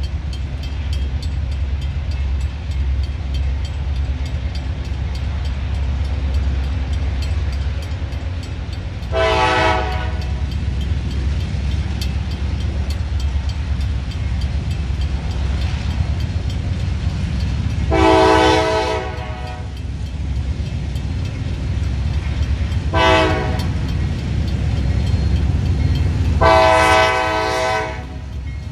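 Freight train's diesel locomotives rumbling steadily as they approach, with the lead locomotive's horn sounding four times: long, long, short, long, the grade-crossing signal.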